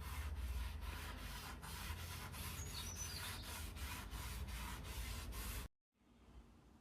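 Rhythmic back-and-forth strokes rubbing across a wood surface, about three a second, stopping abruptly near the end.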